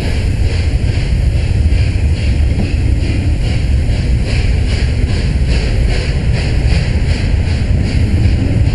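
Coaches of a steam-hauled passenger train rolling past at close range: a steady low rumble with wind buffeting the microphone, and a rhythmic hiss of about three beats a second.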